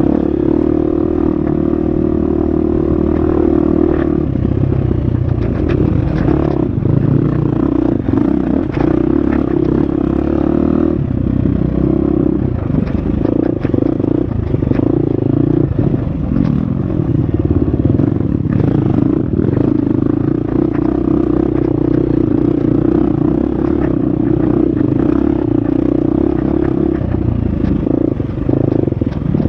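Husqvarna FX 350 four-stroke single-cylinder dirt bike engine under way on a trail, revving up and down as the throttle is worked. Frequent knocks and rattles come from the bike over rough ground.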